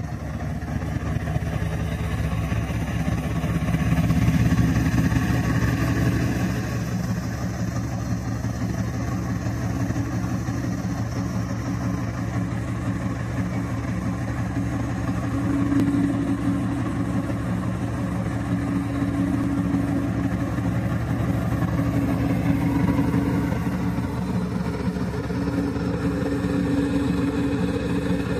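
WDG4G diesel-electric locomotive's GE GEVO-12 engine running just after start-up, a steady deep throb that swells a little louder a few seconds in and then settles.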